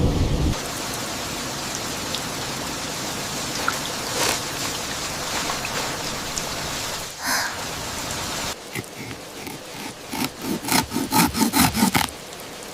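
Steady rain hissing on the forest and shelter, with a few scattered drips and clicks. A low rumble cuts off about half a second in, and in the last few seconds a quick run of soft thuds and rustles, about three or four a second, rises over the rain.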